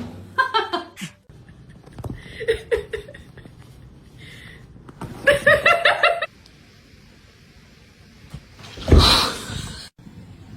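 A person laughing in three bouts of rapid, pulsed 'ha-ha' sounds, with a loud breathy burst about nine seconds in.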